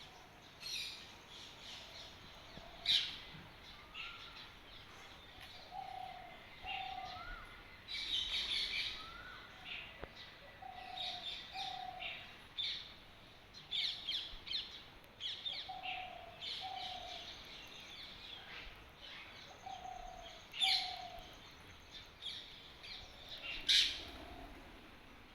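Several birds chirping in a dawn chorus: many short, quick high chirps keep overlapping, while a lower two-note call repeats about every four to five seconds beneath them.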